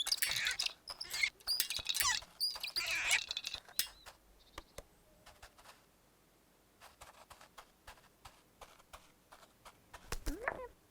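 High squeaky chirping and chattering, busy for about the first three seconds, then scattered light clicks and taps, with a few gliding squeaks near the end.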